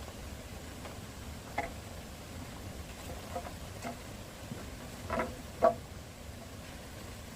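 About five irregularly spaced knocks, each with a short ringing tone, over a steady low background; the loudest comes near the end.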